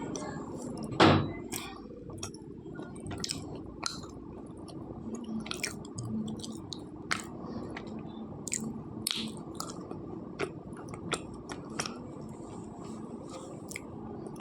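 Slate pencil bitten off with one loud snap about a second in, then chewed with scattered crisp crunches close to the microphone.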